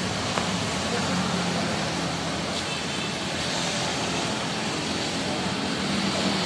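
Mitsubishi Pajero Sport's engine running steadily at low speed, a constant low hum with a steady wash of road noise around it.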